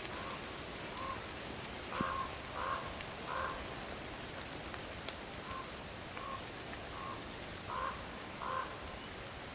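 A bird calling in short, harsh calls, about ten in two runs: a few faint calls then louder ones, first around two seconds in and again near the end. A steady hiss of forest ambience lies under it.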